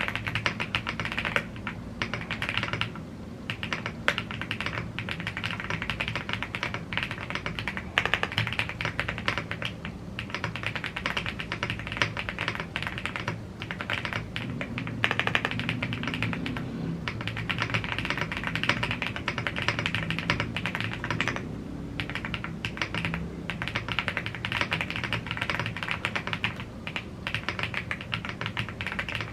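Typing on a YUNZII AL75 gasket-mounted aluminium mechanical keyboard with Blue Grey tactile switches and double-shot PBT keycaps: a fast, steady run of keystroke clacks with a few short pauses.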